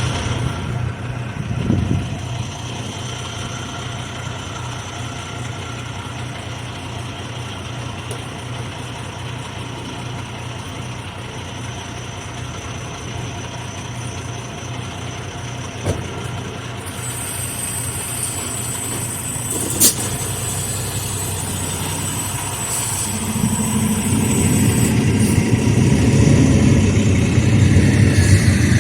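Semi truck's diesel engine running with a steady low hum, growing louder about three quarters of the way through. Two sharp clicks come between.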